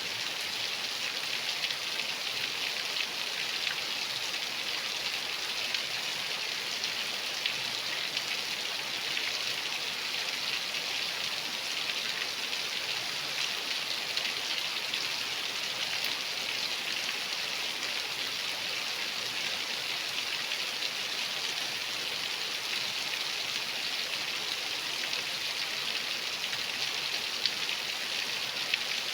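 Steady rain falling: an even hiss of many small drop impacts at a constant level, without let-up.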